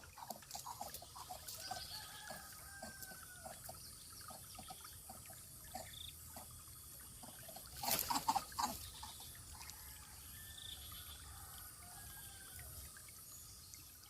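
Faint scattered ticking and tapping, with a few faint high bird calls, and a louder burst of clatter about eight seconds in.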